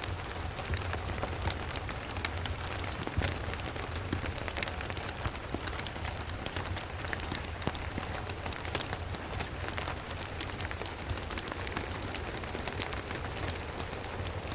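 Steady rain mixed with a crackling wood fire: an even hiss dotted with many small sharp crackles, over a steady low rumble.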